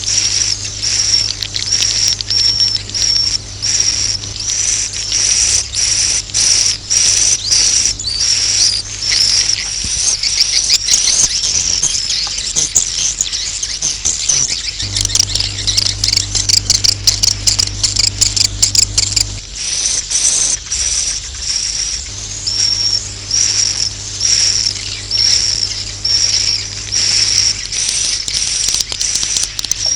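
Swiftlets calling: short high chirps repeating about twice a second, with a denser burst of twittering in the middle. This is a swiftlet roosting call ('suara inap'), the lure sound played in swiftlet houses to draw the birds in to roost. A steady low hum runs underneath.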